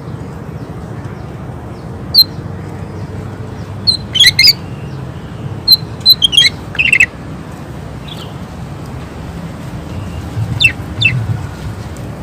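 Green leafbird (cucak ijo) singing in bursts of short, sharp, loud notes: four quick clusters with pauses between them, over a steady low background hum.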